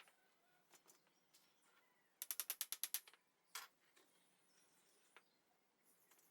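A ratchet clicking rapidly, about ten even clicks in a second, then a single click about half a second later.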